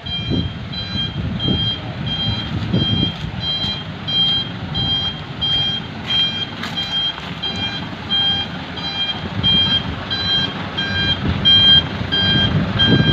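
Dump truck's reversing alarm beeping steadily, about two high beeps a second, over the truck's diesel engine running.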